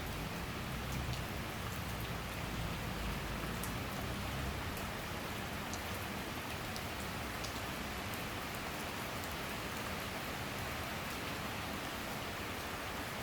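Steady summer rain shower falling, a dense even hiss with scattered fine drop ticks. A low rumble underneath fades out about five seconds in.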